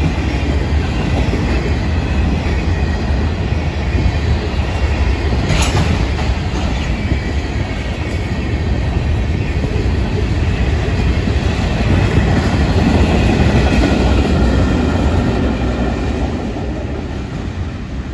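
Freight cars of a Florida East Coast Railway train rolling past close by: a steady rumble of steel wheels on the rails with a faint high squeal over it, and one sharp clank about six seconds in. The sound fades near the end as the last cars go by.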